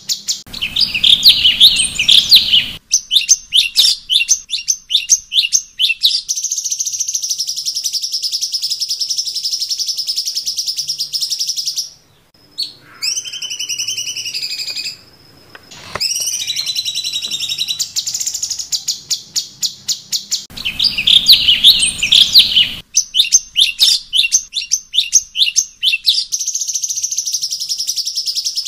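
Cucak cungkok song: rapid runs of sharp, high chirps alternating with long steady high trills, with a few gliding slurred whistles in a short break about halfway, the same phrase sequence coming round again about two-thirds of the way in.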